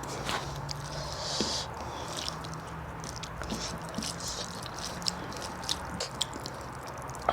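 Close-miked eating: chewing with a run of short, irregular mouth clicks and smacks over a faint steady hum.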